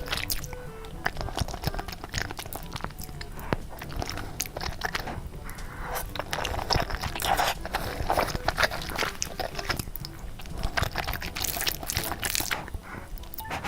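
Someone eating Korean-style instant noodles: chewing and biting with many sharp, wet mouth clicks and crunches, in uneven bursts.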